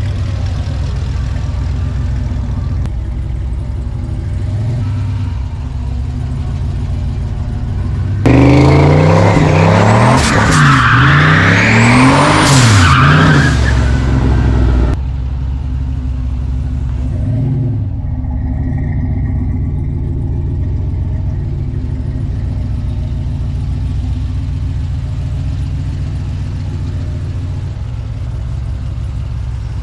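Turbocharged 4.8-litre LS V8 in a GM truck idling. About eight seconds in it is revved hard several times in quick succession for some seven seconds, with a high whistle rising along with the revs. It gives one more short blip a couple of seconds later, then settles back to idle.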